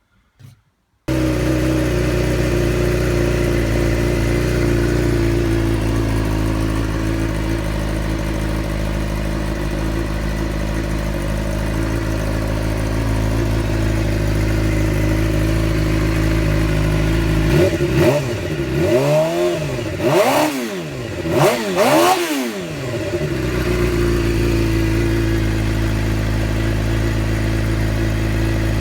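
Suzuki GSX-R 600 inline-four idling steadily through its shortened stock titanium silencer, which has a perforated-tube baffle inside. Its note comes in abruptly about a second in. Roughly 18 seconds in, the throttle is blipped several times in quick succession, each rev rising and falling, before the engine settles back to idle.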